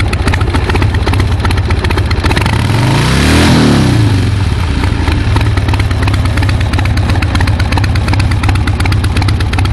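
Motorcycle engine idling steadily, given one blip of the throttle about three seconds in that rises and falls back to idle. It runs smoothly at idle; the sputtering from a carburettor problem shows only under load.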